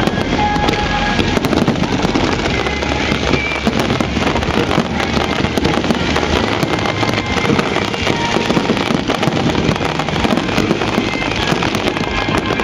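Dense fireworks barrage heard at close range: a continuous rapid run of bangs and crackling with no let-up.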